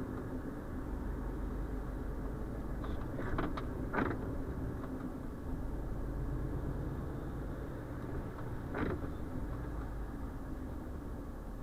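Steady low engine and road noise inside the cab of a Renault Trucks T520 diesel truck under way, with a few short clicks or knocks about three to four seconds in and another near nine seconds.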